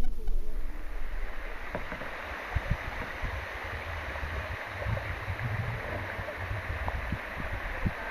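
Fast-moving river water rushing steadily. The noise swells in about half a second in, with irregular low thumps underneath.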